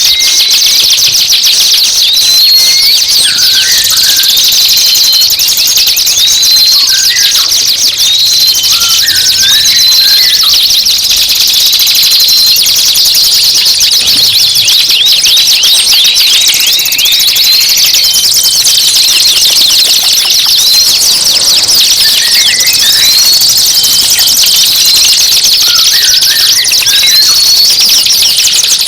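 Dense, fast, high-pitched songbird chatter and trills, with short rising chirps repeating every second or two over a continuous rapid ticking: a recorded birdsong master track used to teach caged songbirds.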